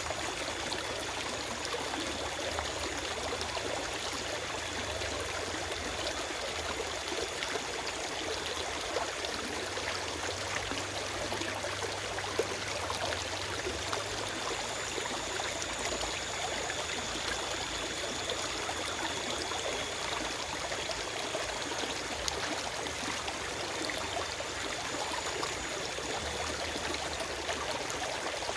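Forest stream running steadily over rocks, a constant rushing and trickling of water.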